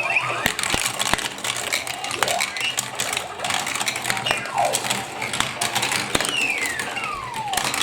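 Marbles rolling and clattering through a plastic block-and-magnet marble run, with many quick clicks and knocks against the plastic pieces. Rolling sounds slide in pitch, with one long falling glide near the end.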